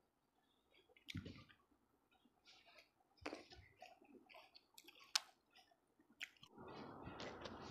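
Close-up eating sounds: someone chewing fruit, with scattered wet mouth clicks and smacks. About six and a half seconds in, a steady hiss comes in underneath.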